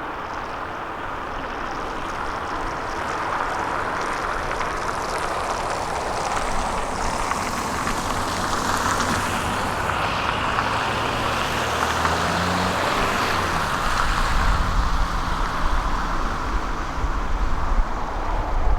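Heavy diesel construction machinery running steadily: engines and hydraulics of excavators and a truck working. The engine note shifts about two thirds of the way in, and a deeper rumble grows louder near the end.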